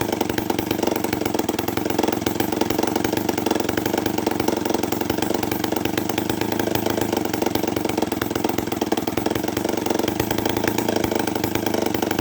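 Homelite 500 two-stroke chainsaw engine running loud with no muffler, a rapid stream of open exhaust pulses at a steady speed. This is its first run after a carburetor rebuild, with the Hi and Lo needles set 3/4 turn open.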